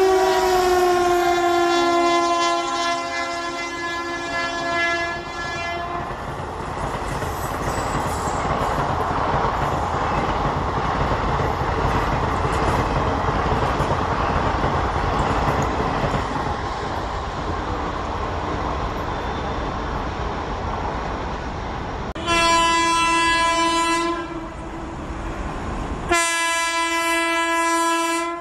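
Indian Railways WAP-4 electric locomotives running through at speed. First a horn sounds as a loco passes, its pitch dropping slightly, and stops about six seconds in. Then the coaches make a steady rushing rumble on the rails, and near the end two horn blasts come from the next approaching train.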